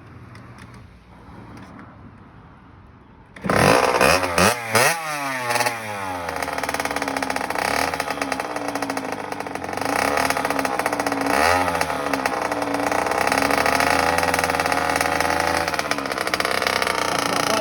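Kawasaki KX60 dirt bike's small two-stroke engine, faint at first, then suddenly loud about three and a half seconds in with a few quick revs. It runs on with its pitch rising and falling, and there is another rev about halfway through.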